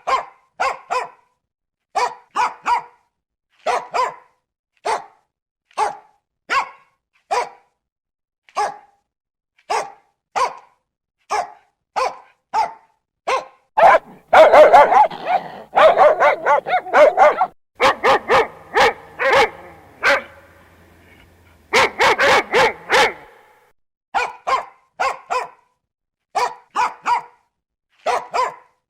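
A dog barking in short, sharp barks, mostly in quick pairs about a second apart. Around the middle there is a faster, overlapping flurry of barks.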